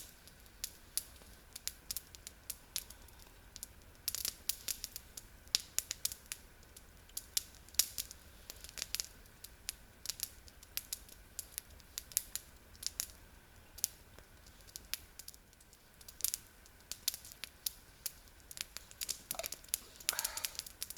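Campfire crackling: burning wood giving off irregular sharp snaps and pops at an uneven rate.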